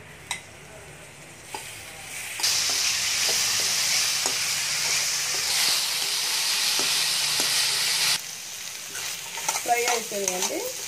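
Flat beans (chikkudukaya) frying in hot oil in a kadai, with a metal spatula stirring them. The sizzle is quieter at first, rises to a loud, steady sizzle from about two seconds in, and drops back about eight seconds in, leaving lighter scrapes of the stirring.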